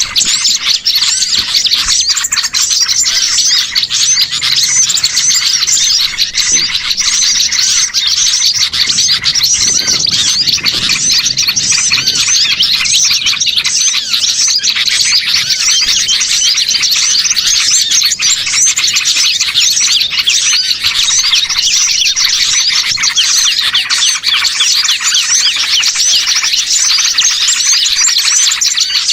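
Dense, continuous chorus of many small songbirds chirping and twittering at once, loud and unbroken. It is a noisy small-bird lure (pikat) recording, played to draw wild birds in.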